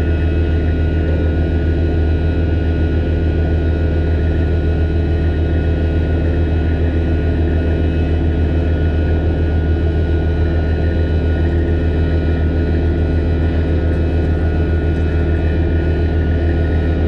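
Heavy diesel engine running at a steady speed: a constant, loud drone with a strong low hum and steady tones above it, unchanging throughout.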